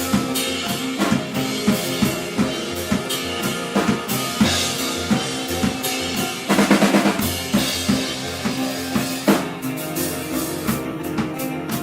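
Live band playing: a drum kit keeps a steady beat of kick and snare hits under sustained pitched instruments, with a louder, busier stretch a little past the middle.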